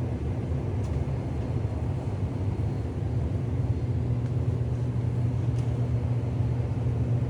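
Steady low rumble with no breaks or distinct events.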